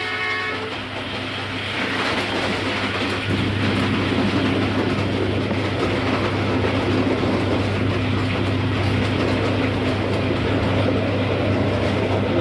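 The horn of a ZCU-30 diesel-electric locomotive cuts off about half a second in, followed by the steady rumble and clatter of the passenger train passing, which grows louder about three seconds in.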